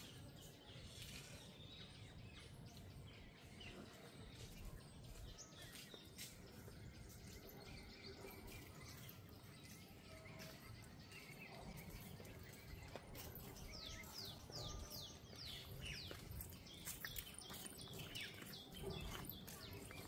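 Faint outdoor ambience with small birds chirping. About three-quarters of the way through comes a quick run of about five short falling chirps.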